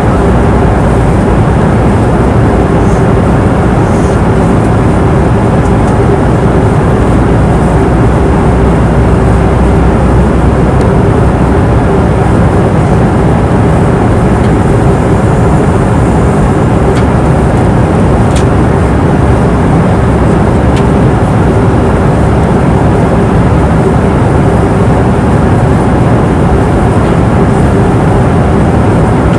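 Steady roar of airliner cabin noise in flight: engine and airflow noise, with a steady hum running through it.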